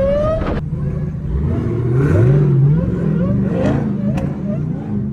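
Car engine revving and accelerating in repeated surges, its pitch climbing and dropping several times, echoing off surrounding walls.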